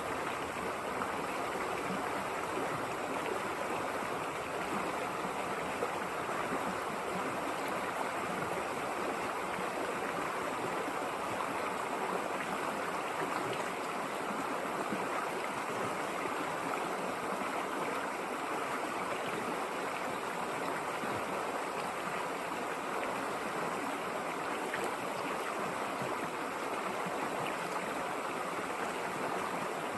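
River water flowing over stones: a steady, even rush with some gurgling.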